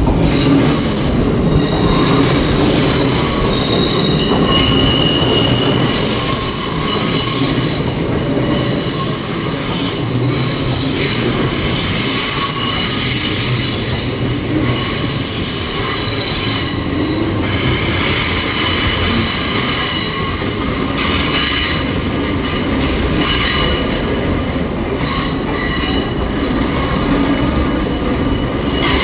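Arriving Class 800 IET train, its wheels squealing on the track: several high-pitched tones that shift and change over a steady low rumble of the train rolling in.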